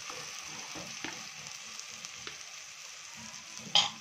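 Chopped onions, green chillies and tomato sizzling in oil in a black kadhai while a metal spatula stirs and scrapes them, with a few faint clicks and one sharp knock near the end.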